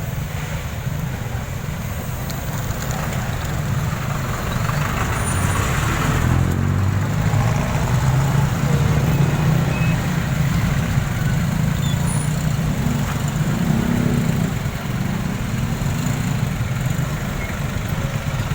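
Motorcycle running steadily while riding in traffic, with a rumble of engine and road noise that swells a little in the middle.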